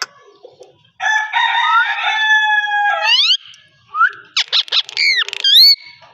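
Indian ringneck parrot calling: a loud held call of about two seconds with a crowing quality, ending in quick rising notes, then a run of sweeping whistled glides.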